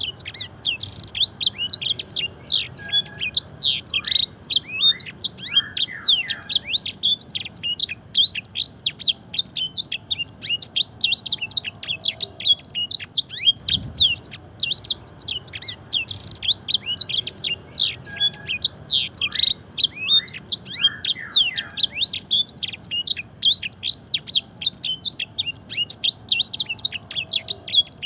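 Domestic canary singing a long, unbroken song of fast high chirps and trills, filled with phrases learned from blackthroat and edel sanger song. The same stretch of song comes round again about halfway through, as in a looped training recording.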